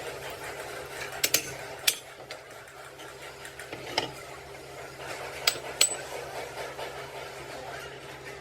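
Scattered sharp metallic clinks and taps of tools and steel parts being handled, about six over several seconds, over a steady low hum.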